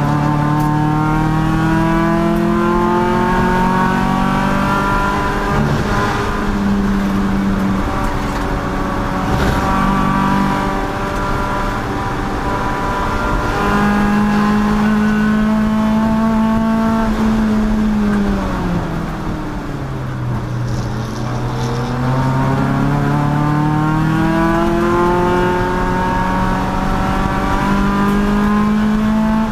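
Race car engine running at high revs under load. Its pitch climbs and steps with gear changes, falls steeply about two-thirds of the way through as the car slows, then climbs again as it accelerates.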